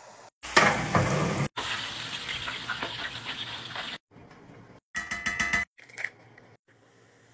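Kitchen cooking sounds in several short clips, each cut off abruptly: hot oil sizzling and crackling around frying chicken for a couple of seconds, then brief snippets of liquid being poured and stirred into a dry cornmeal mix.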